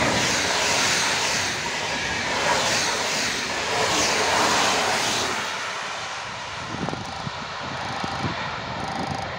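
Electric-hauled train passing at speed: a loud rushing noise that fades away after about five seconds.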